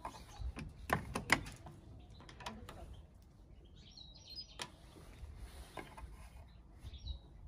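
Faint, scattered chirps of small birds, with a few sharp knocks about a second in.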